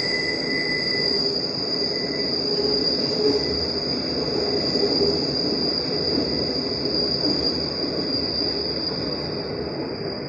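Lisbon Metro train running, a steady rumble and rush of noise with a constant high-pitched squeal over it. It grows a little quieter near the end.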